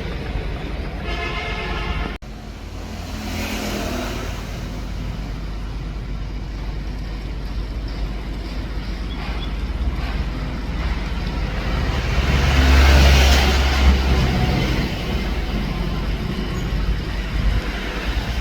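Engine running with a steady low rumble and a short horn toot about a second in; the rumble grows louder around twelve seconds in, then eases.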